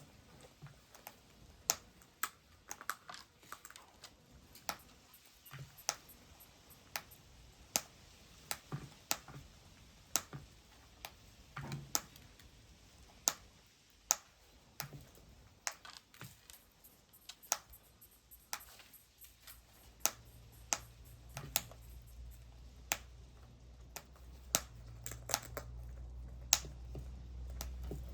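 Irregular sharp clicks and taps, one or two a second, with a low hum coming in during the last third and growing louder.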